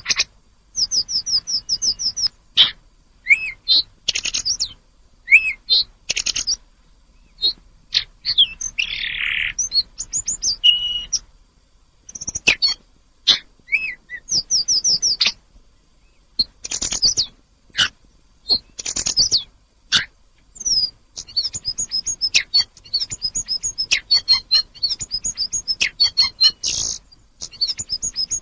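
A tledekan gunung songbird singing: phrases of rapid, high chirping notes repeated in quick runs, separated by short pauses, turning into a dense, unbroken twittering over the last several seconds.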